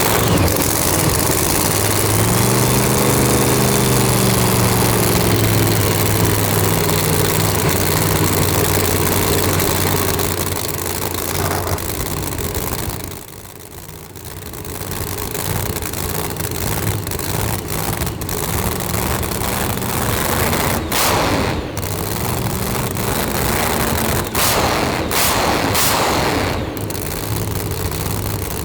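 No-prep drag race car's engine idling loudly just after start-up, with a brief rise and fall in revs about two seconds in. The engine sound drops away about thirteen seconds in, then rougher running returns with sharp pops and cracks.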